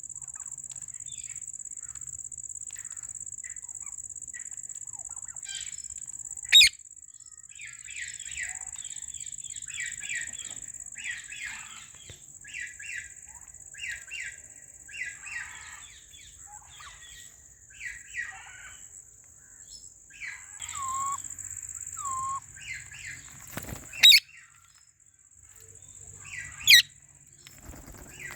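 Alexandrine parrots chattering in quick soft chirps, broken by three short, loud, sharp calls: one about a quarter of the way in and two near the end. A steady high tone sounds behind them and stops about four seconds before the end.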